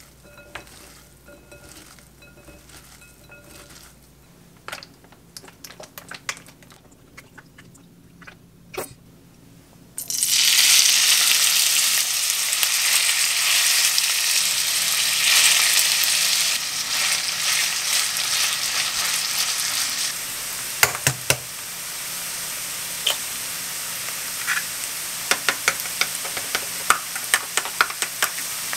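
Shredded raw potato hitting hot oil in a frying pan: a sudden loud sizzle about a third of the way in that carries on, easing down in steps as the strands are spread out. Before it, soft rustles and clicks of the raw potato strands being handled; near the end, quick light clicks of chopsticks beating egg in a wooden bowl.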